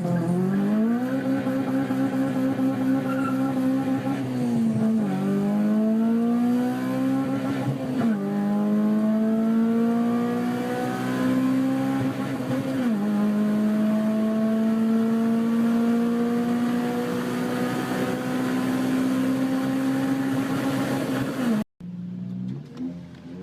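Honda K20 2.0-litre inline-four VTEC engine accelerating hard through the gears: the revs climb high, drop at upshifts about five, eight and thirteen seconds in, then hold a long high-revving pull. Near the end the sound cuts out suddenly and the engine returns at lower revs.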